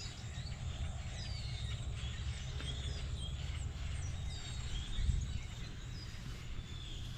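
Small birds chirping, a stream of short high whistled notes, many of them falling in pitch, over a steady low rumble, with a brief louder bump about five seconds in.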